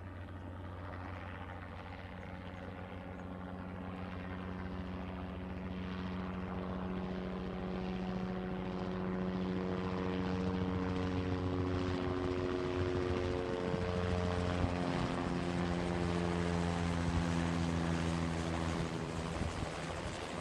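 Helicopter engine and rotor running, a steady throbbing drone with a held engine tone. It grows louder over the first half and then holds.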